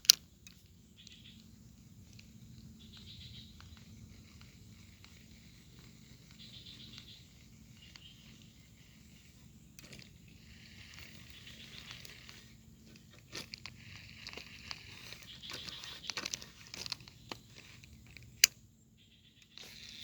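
Fishing reel being cranked in short spells, a fast fine ticking, with a sharp click at the start and another near the end, and louder scraping and clicking handling between about 13 and 17 seconds.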